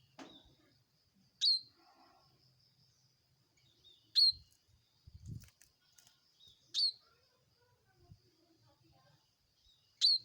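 Bar-winged prinia (ciblek) giving loud, sharp chirps: four in all, about every two and a half seconds, each a quick note falling in pitch. A faint steady high whine runs underneath.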